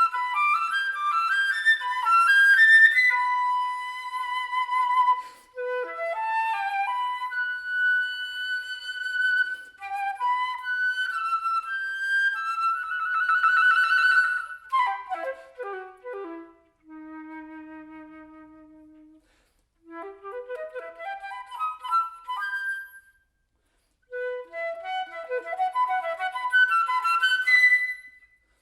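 Solo flute playing quick rising and falling runs. About halfway through comes a rapid trilled passage, then a descent to a soft, low, held note. After short pauses, runs climb back up.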